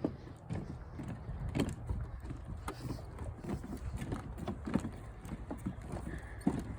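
Footsteps on a hollow wooden boardwalk, a steady string of knocks about two or three a second, over low wind rumble on the microphone.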